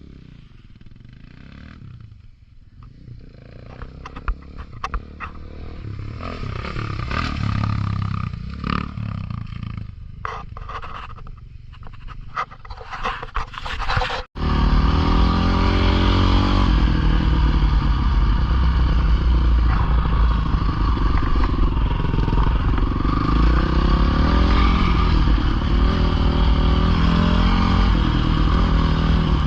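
Dirt bike engines: a bike's engine grows louder over the first half amid clattering and scraping. After an abrupt cut about halfway in, a bike's engine runs loud and close at a fairly steady pitch.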